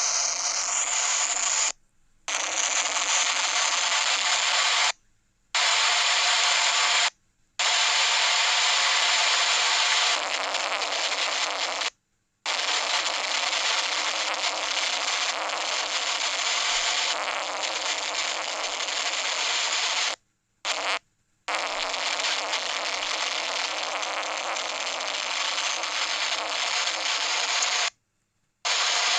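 Heavy thunderstorm rain pouring down steadily, as a dense even hiss, cut off abruptly by short silent breaks several times.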